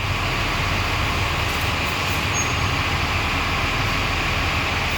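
Fire truck engine running steadily with a constant low rumble.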